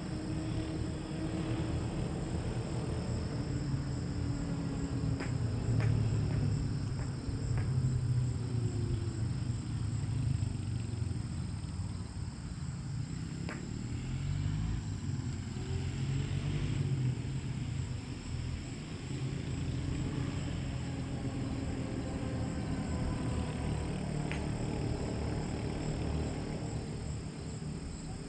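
Low, steady rumble whose pitch slowly drifts up and down, with a continuous high insect drone above it and a few faint clicks.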